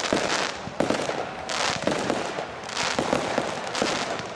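Fireworks display: bursts going off every second or so, with crackling and hissing between them.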